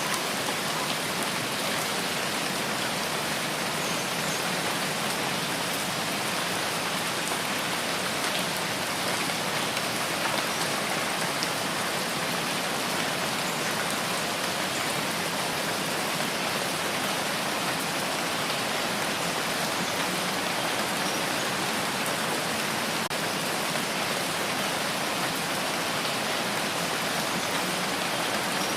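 Steady rain falling, an even patter of drops on surfaces with no let-up.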